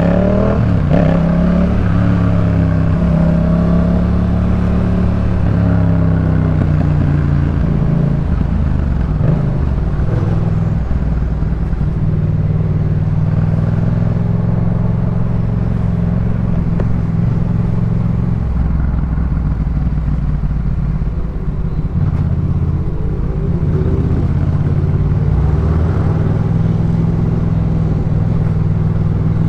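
Yamaha MT-07 parallel-twin engine through a Jeskap K4 full aftermarket exhaust, heard while riding: it revs up in pitch several times in the first seven seconds, holds a steady cruise, then picks up again near the end.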